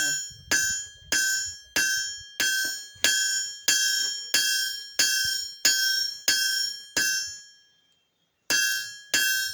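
Blacksmith's hammer striking hot steel on an anvil, flattening the end of a bar into a butter-spreader blade, at about two ringing blows a second. The blows stop for about a second near the end, then start again.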